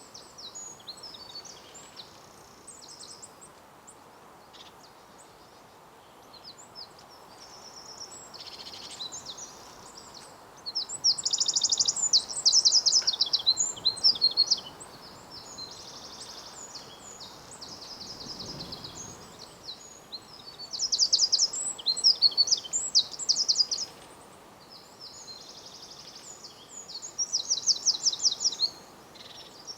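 Small songbirds singing, with softer chirps throughout and three loud bursts of rapid, high trilling song about ten, twenty and twenty-seven seconds in.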